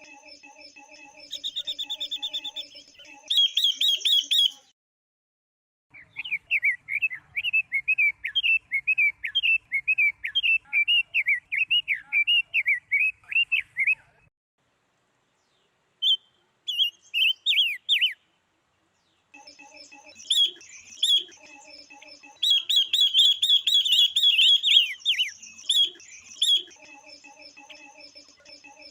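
Calls of female silver-eared mesia and female red-billed leiothrix, the kind played to stir males into singing. They come in separate bursts: repeated high chirps, a long rapid warbling chatter, then dense repeated calls, with the sound cutting off suddenly into silence between bursts.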